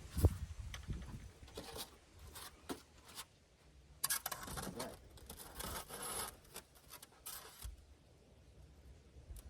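Irregular scraping, rubbing and cutting noises of insulation material being worked by hand, with a sharp knock just after the start and the busiest scraping in the middle.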